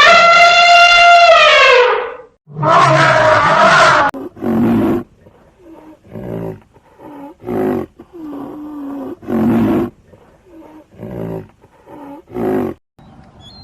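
Lion roaring: two long, loud calls, then a series of short grunts about one a second, uneven in loudness.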